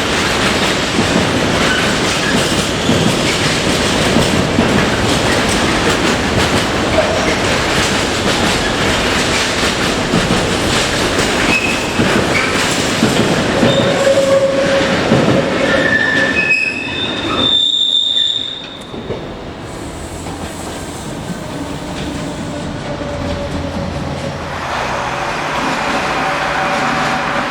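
A train rolling past close by, wheels rumbling and clattering over the rails, with brief wheel squeals past the middle. A little over halfway through the sound drops off abruptly to a quieter, steadier train running sound.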